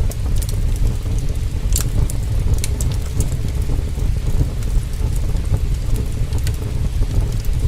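Heavy rain with a steady deep rumble, mixed with a crackling fire giving scattered sharp pops and snaps every second or so.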